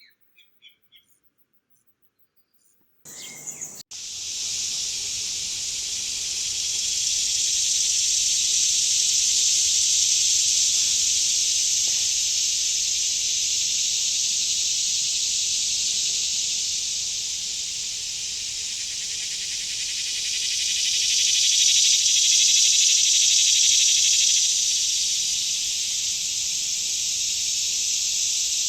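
Chorus of many cicadas singing in a steady, high-pitched drone that begins about three seconds in and swells and fades twice.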